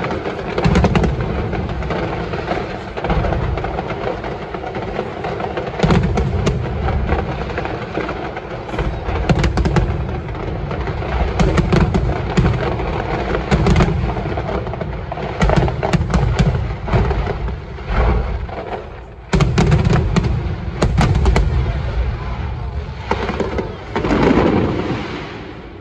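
Fireworks display: aerial shells bursting in quick succession, a near-continuous run of deep booms and crackling, with a few louder bangs standing out.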